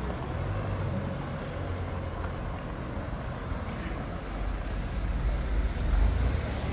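An SUV's engine running at low speed close by, a steady low rumble that grows louder over the last couple of seconds as the vehicle draws near.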